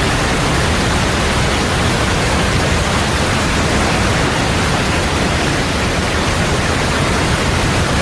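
Loud, steady rush of a fast river running high with meltwater over falls.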